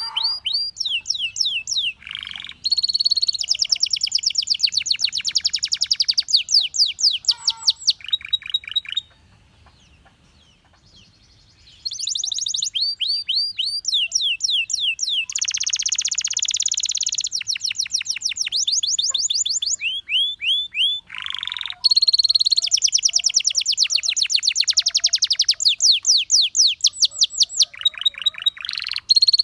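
A male Belgian canary singing long rolling trills of fast repeated sweeping notes, changing tour every few seconds. It falls silent for about three seconds near the middle, then resumes with more rapid trills.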